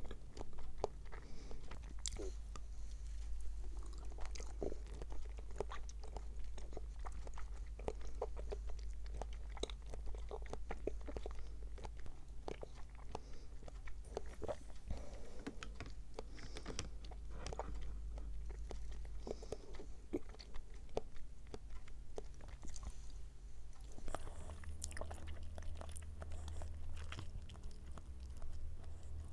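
Close-miked chewing of soft konjac jelly: many small wet mouth sounds and sharp clicks of teeth knocking together. The jelly itself makes little sound of its own.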